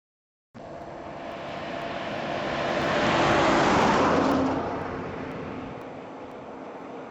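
A motor vehicle passing by: engine and tyre noise that cuts in suddenly, swells to a peak about three to four seconds in, then fades away.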